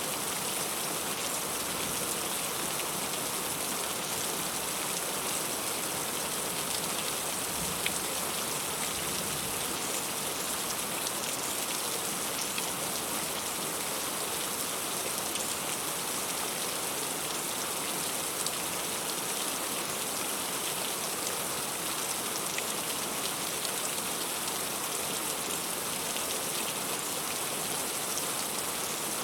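Heavy rain falling steadily, a dense even hiss with many individual drops striking close by.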